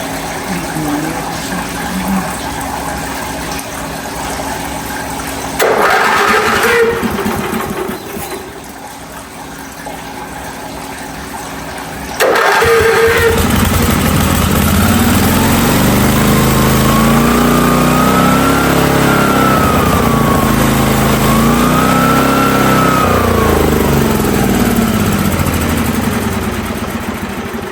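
The pressure washer's 16 hp petrol engine gives a short burst about six seconds in, then starts about twelve seconds in and runs, its speed rising and falling twice before it eases off near the end.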